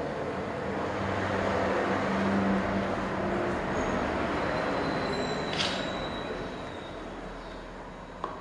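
An electric power tool running with a steady hum and whirring noise, growing quieter over the last few seconds. A sharp click comes near the end.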